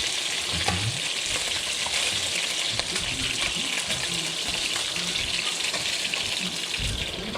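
Unbreaded chicken pieces frying in oil in a pan: a steady sizzle, with a few light clicks.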